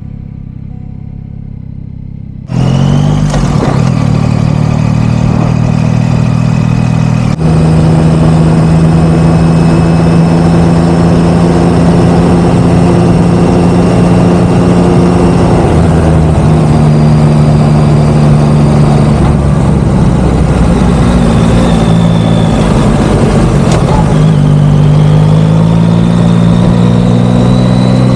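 Yamaha XSR900 GP motorcycle's inline three-cylinder engine starting up a few seconds in and running steadily. Its pitch then steps and rises near the end as the bike gets under way.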